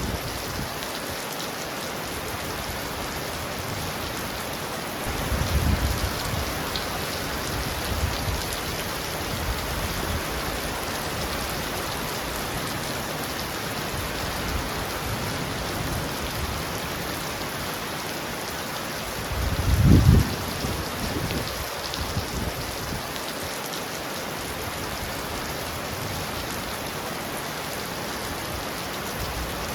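Heavy rain falling steadily on a roof, an even hiss of drops. Low rumbles of thunder rise briefly about five seconds in and again, louder, about twenty seconds in.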